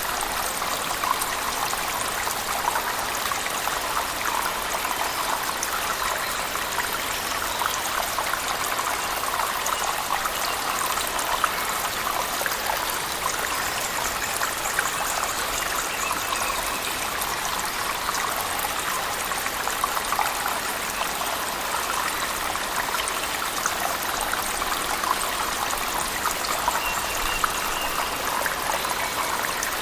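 Cave waterfall mixed with heavy rain: a steady rush of falling water, dense with small splashing drops.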